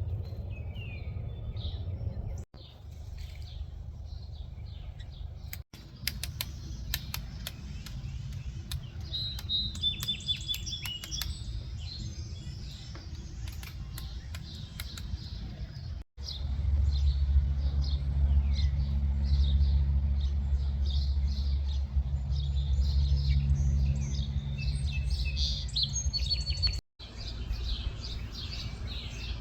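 Birds chirping and calling in short, sharp notes over a steady low rumble. The rumble grows louder for about ten seconds in the second half, and the sound drops out abruptly several times.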